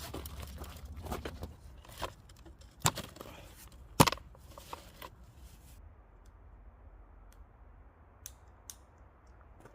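A few sharp knocks and clicks of objects being handled, the loudest about four seconds in; after that it goes quieter, with two light ticks near the end.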